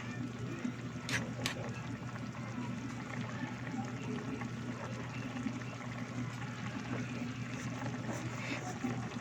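Chicken afritada stew simmering in tomato sauce in a pot, a steady fine bubbling, with two short clicks about a second in.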